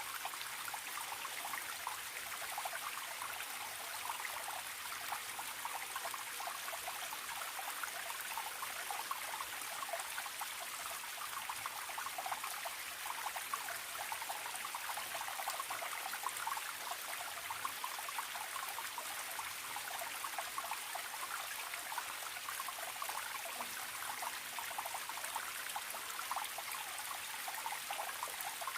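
Stream of water trickling steadily, an even, continuous babble.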